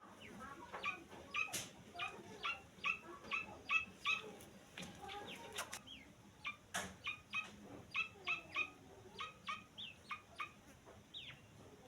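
Grey francolin (teetar) chicks calling: short, sharp calls repeated about three times a second, with pauses, and now and then a down-slurred whistle. A few sharp clicks are mixed in.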